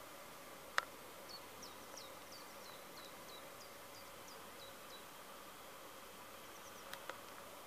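A bird singing faintly in the background: a run of about a dozen short, high, falling notes, about three a second, with a sharp click about a second in and two smaller clicks near the end.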